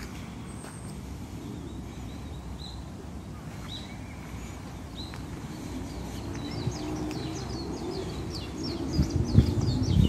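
Small birds chirping: a few short single chirps in the first half, then a quick run of many short, high, falling notes from past the middle on. A low rumble runs underneath, and a few loud low thumps come near the end.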